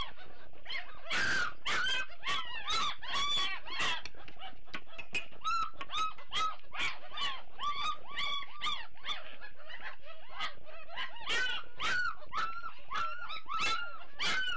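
A litter of Great Dane puppies whining and yelping: many short, high, arching calls overlapping, several each second.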